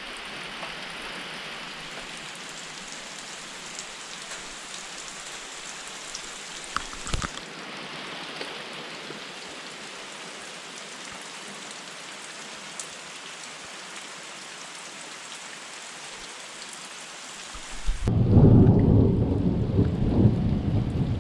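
Steady rain hiss. About eighteen seconds in, a loud low rumble of thunder takes over.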